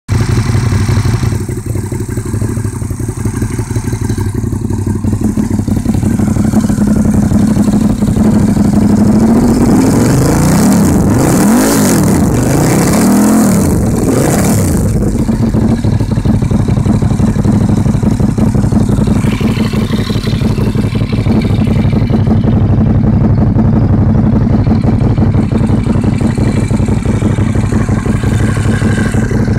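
Moto Morini Corsaro Veloce 1200's V-twin engine running through an open Termignoni exhaust, idling steadily. Near the middle it is revved up and down about three times in quick succession, then settles back to idle.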